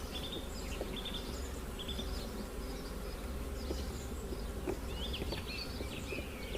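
Honey bees buzzing steadily from an open, smoked brood box, with one faint click about two-thirds of the way through.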